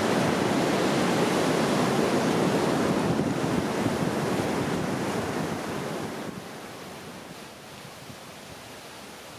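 Ocean surf washing, loud at first and then dying away over the last few seconds.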